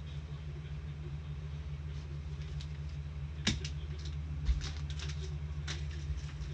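Trading cards being handled and flicked through, giving light scattered clicks and ticks over a steady low hum. A sharper click comes about three and a half seconds in, and a low thump about a second later.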